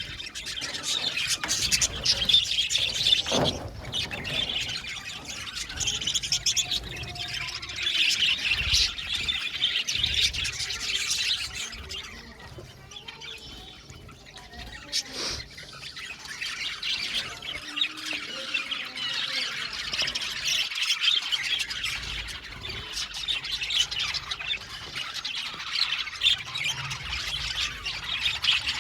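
A flock of budgerigars chattering and chirping, many birds calling over one another, easing off for a few seconds about halfway through before picking up again.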